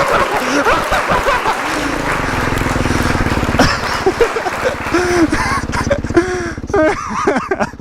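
Dirt bike engines revving hard through tight turns, the pitch rising and falling with the throttle over a fast, steady firing rhythm.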